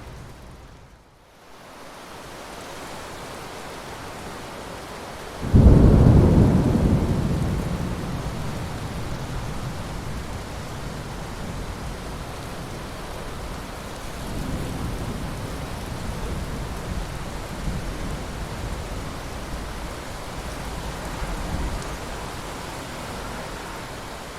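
Steady rain with thunder: the rain dips briefly about a second in, then a sudden loud thunderclap breaks about five seconds in and rumbles away over several seconds, followed by two softer rolls of thunder later on.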